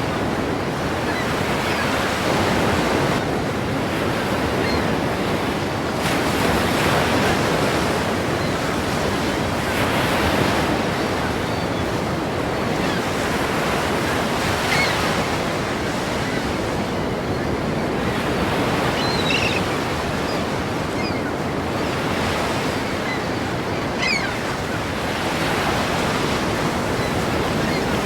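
Ocean surf, waves breaking and washing in steadily, swelling louder every few seconds.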